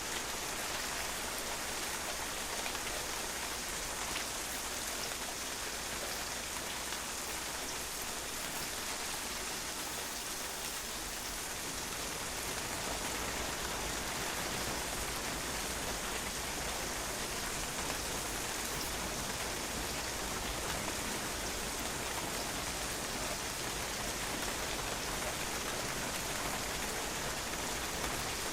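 Steady rain falling and bouncing off a patio, an even dense patter of drops at a constant level.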